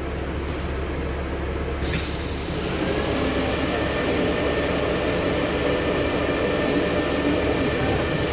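Interior of a LiAZ-6213.65 articulated city bus stopped at a stop, its engine idling with a low steady hum. About two seconds in there is a sudden burst of compressed-air hiss from the bus's pneumatic system, and the hiss and running noise carry on after it.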